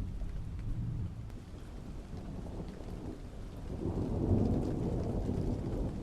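Thunder rumbling over steady rain, swelling to a deep, loud roll a little past halfway and then easing off.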